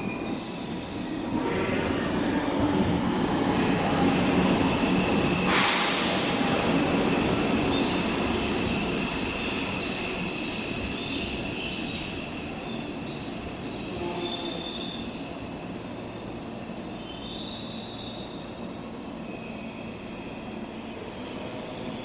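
Tobu Railway electric train moving along the station platform, its wheels squealing on the rails over a running rumble that swells for the first few seconds and then slowly fades. Two short bursts of hiss cut through, one near the start and one about five and a half seconds in.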